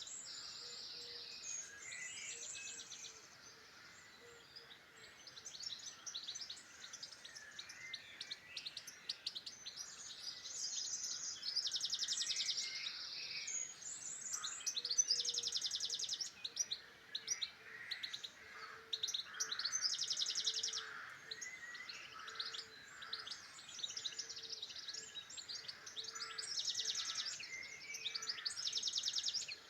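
Several songbirds singing at once, a chorus of overlapping rapid trilled and twittering phrases, with louder bursts of song recurring every few seconds.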